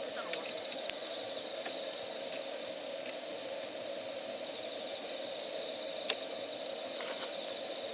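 A wood campfire burning, with a few faint scattered crackles and pops over a steady hiss, and a constant high-pitched tone behind it.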